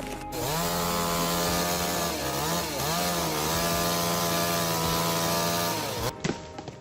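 Chainsaw running at high throttle while cutting, its pitch dipping a couple of times under load around two to three seconds in; it cuts off about six seconds in.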